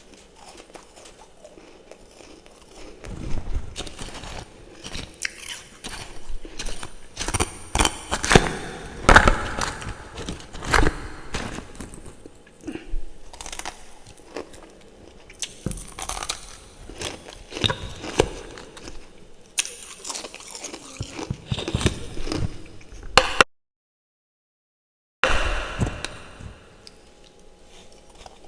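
A person biting and chewing chunks of refrozen freezer frost topped with fresh frost in the mouth: loud, irregular ice crunches and crackles. The crunching cuts to dead silence for about two seconds near the end, then starts again.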